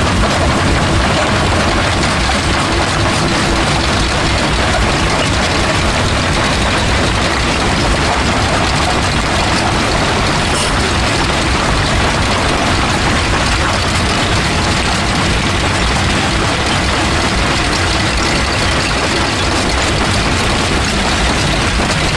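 Industrial jaw crusher running and crushing stone: a loud, steady rumble with a continuous grinding clatter.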